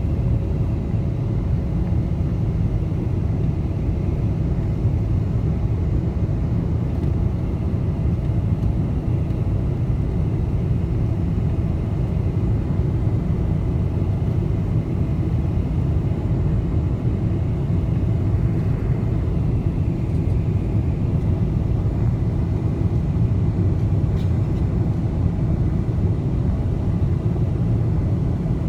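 Cabin noise inside a Boeing 747: a steady low rumble of engines and airflow with a faint steady hum above it.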